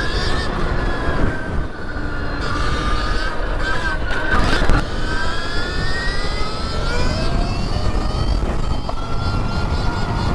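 Wind rushing over the microphone while the Stark Varg electric dirt bike's motor whines, its pitch climbing several times as the bike accelerates.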